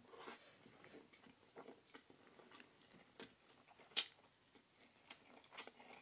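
Quiet close-miked chewing of a person eating, with small wet mouth clicks throughout and one sharper click about four seconds in.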